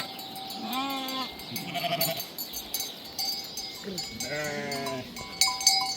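Flock animals bleating: a short bleat about a second in and a longer, quavering bleat at about four seconds, with small livestock bells clinking in the background.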